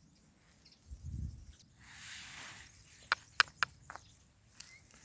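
Outdoor movement and handling noises: a low thump about a second in, a brief rustle, then three sharp clicks in quick succession about three seconds in, followed by a few fainter ones.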